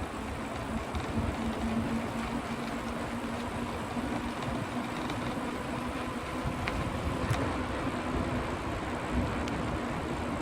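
Steady vehicle noise: a continuous rush with a low steady hum underneath and a few faint clicks.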